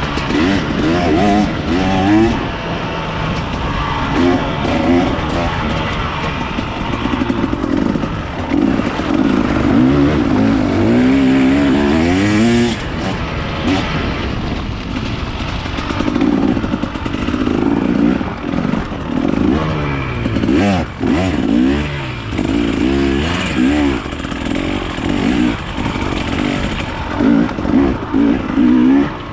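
Enduro motorcycle engines revving up and down again and again, the pitch rising and falling every second or two, with throttle blips and short drops between.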